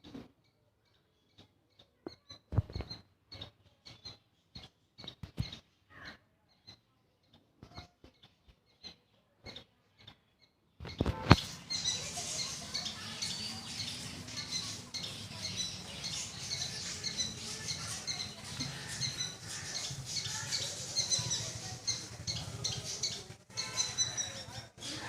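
A small squirrel calling with short, sharp chirps, spaced irregularly at first. About eleven seconds in, a steady hiss comes in behind the calls and the chirping grows quicker and denser.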